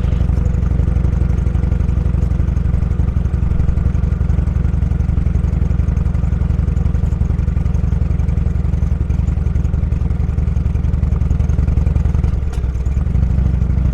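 Motorcycle engine running steadily under way, with its low engine note dominant; it eases briefly near the end, then picks up again.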